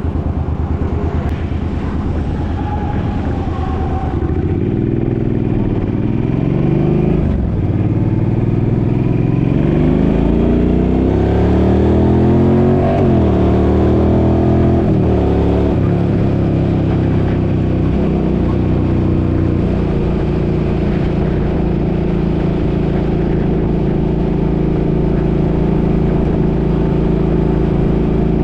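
Suzuki motorcycle engine under way, its pitch climbing and dropping several times through the gears in the first half, then holding a steady cruise.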